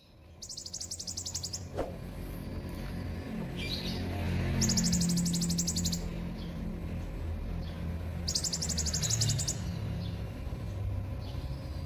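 Kolibri (sunbird) singing: three rapid, high-pitched trills, each about a second and a half long and about four seconds apart, over a low steady background hum.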